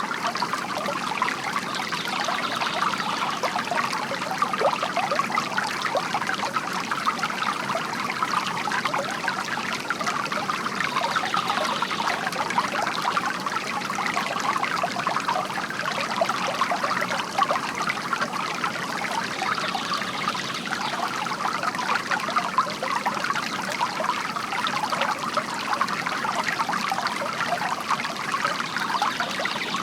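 Water from a bamboo fountain spout trickling and splashing into its basin, steady and unbroken.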